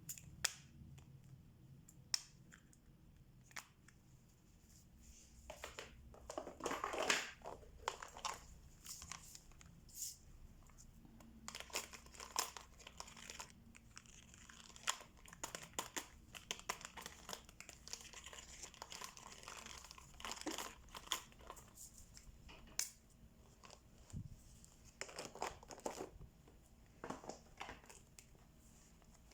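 Quiet crinkling and rustling of thin plastic, with scattered small clicks and taps, from hands at work on a diamond painting. The rustling comes in uneven spells, densest a few seconds in and again through the middle.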